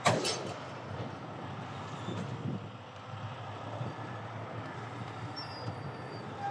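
Heavy diesel truck engine running steadily, with one loud sharp bang right at the start that trails off over about half a second.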